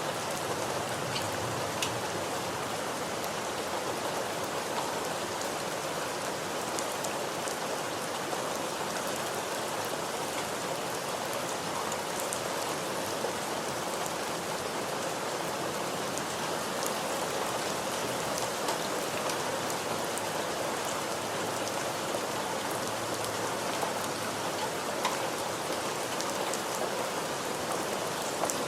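Steady rain falling on a surface: an even hiss with scattered individual drops ticking through it.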